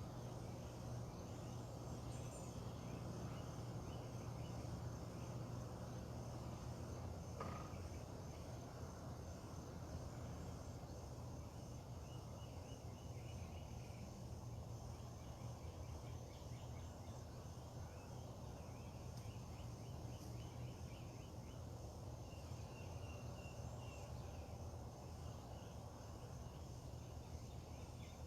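Faint outdoor morning ambience: a steady low rumble with small birds giving short, rapid high-pitched trills now and then, and one brief sharp chirp or click about seven seconds in.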